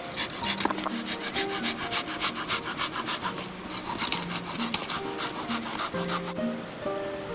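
A blade rasping rapidly back and forth through firewood, several strokes a second, stopping about six seconds in. Soft plucked-string background music with held notes plays underneath.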